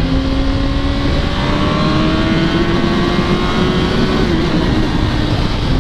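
2005 Yamaha R1's inline-four engine pulling under throttle, its pitch rising slowly, with a brief dip about four seconds in, over steady wind rush on the helmet camera.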